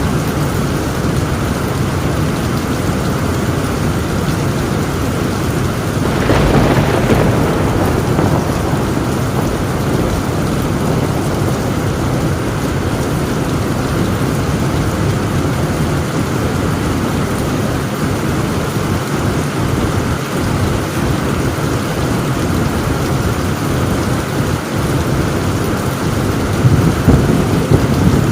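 Heavy rain pouring steadily on a tin roof, with a clap of thunder about six seconds in and another loud burst of thunder near the end.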